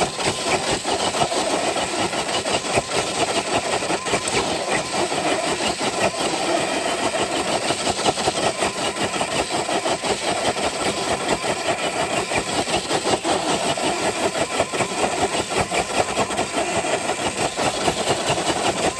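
Traxxas TRX4 RC truck's electric motor and drivetrain running hard under load as it drags a weighted dead sled, a steady gritty noise with a rapid flutter.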